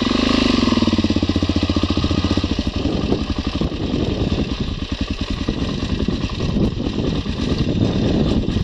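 Dirt-bike engine running hard under load on a rough hill climb, revving up loudly at the start and then pulling on with uneven throttle.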